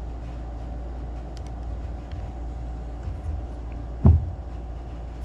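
Steady low hum in the background, with faint small clicks of carburetor parts being handled and one heavy low thump about four seconds in.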